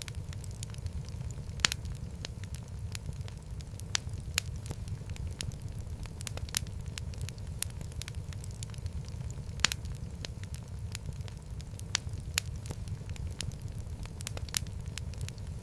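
Wood fire burning in a fireplace: a steady low rumble of flames with irregular sharp crackles and pops, two of them louder, at about two seconds and about ten seconds in.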